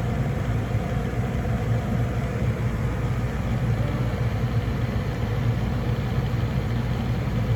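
Gas furnace running: a steady low motor hum and drone with no change in level.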